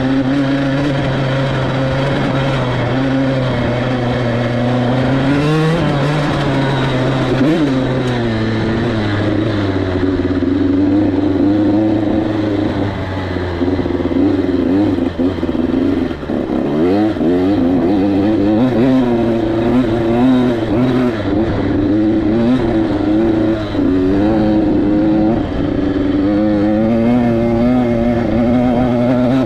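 KTM 85SX's 85cc single-cylinder two-stroke engine running as the dirt bike is ridden, its pitch rising and falling with the throttle. About halfway through it drops low, then revs back up in quick rising sweeps.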